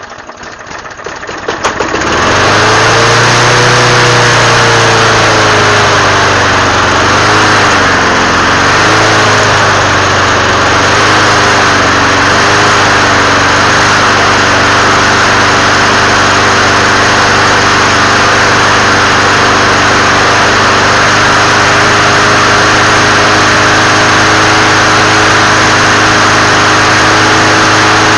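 6 hp Toro GTS lawn mower engine catching on a cold start, its speed wavering up and down for the first several seconds before it settles into a steady run.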